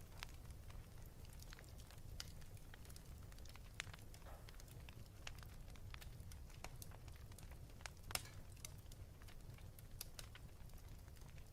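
Wood fire crackling in a fireplace: irregular pops and snaps over a faint, steady low rumble, with the sharpest pop about eight seconds in.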